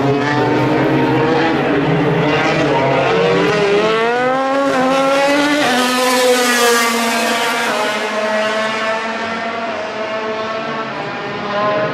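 MotoGP racing motorcycle engine accelerating hard past the listener. It rises in pitch, shifts up a gear just before six seconds in, is loudest just after, then fades as the bike draws away.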